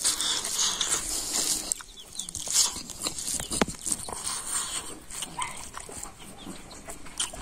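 Close-up eating sounds of a man eating rice and curry by hand: chewing with wet lip smacks and clicks, and animals calling in the background.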